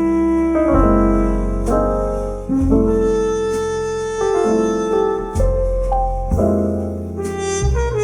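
Piano music with a deep bass, a new chord struck about once a second.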